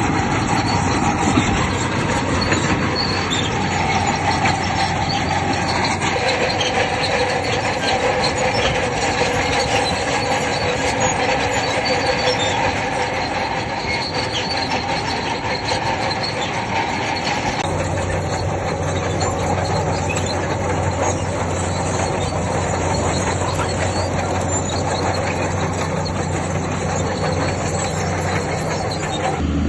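Crawler bulldozer at work: its diesel engine running under a continuous metallic squeal and clatter from its steel tracks. The sound shifts a little over halfway through, when a low steady hum comes in.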